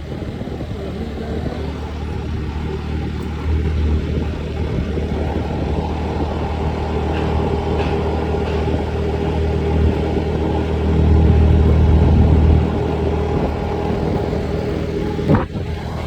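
A vehicle's engine running steadily on the move, with a constant low rumble and hum that swells for a couple of seconds about two-thirds of the way through.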